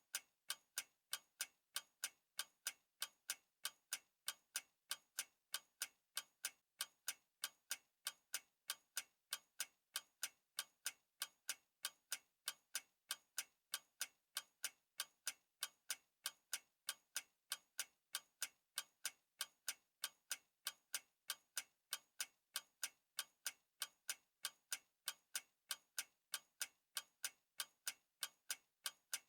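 Clock ticking: sharp, evenly spaced ticks at a steady, unchanging rhythm.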